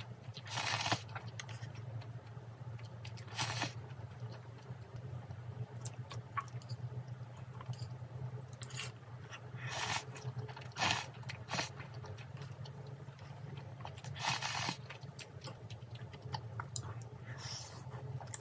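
Crunchy food being bitten and chewed close to the microphone, in separate loud crunches every second or few, over a steady low hum.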